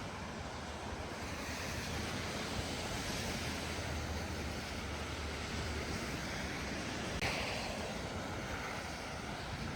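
Snowy street ambience: a steady rushing of wind and tyres hissing through slush, slowly swelling and fading, with a single sharp click about seven seconds in.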